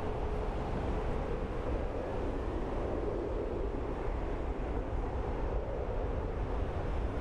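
Boeing 747-8 freighter's jet engines making a steady low rumble and rush as it comes in to land.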